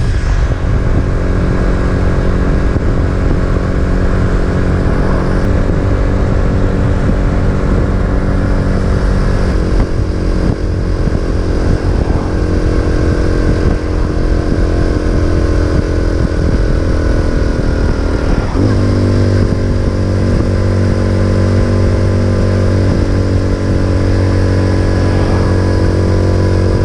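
Racer Alpha RC50 moped's small single-cylinder four-stroke engine running steadily under way, with wind on the microphone; the engine note shifts in steps a few times, about five, ten and eighteen seconds in.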